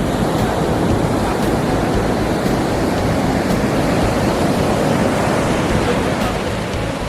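Pacific Ocean surf, waves washing in a steady loud rush, with wind buffeting the microphone.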